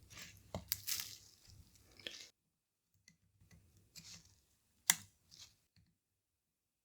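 Small plastic parts of a handheld console being handled during reassembly: scratchy rustling and scraping for about two seconds, then a few light clicks, with one sharp click about five seconds in.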